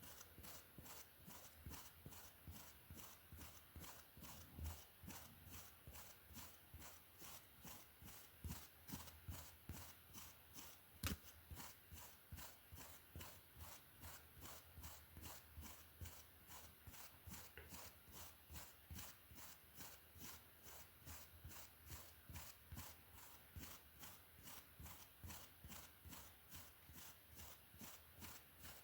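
Hairbrush stroking through hair in a slow, even rhythm of about two soft brushing strokes a second, with one sharp tap about eleven seconds in.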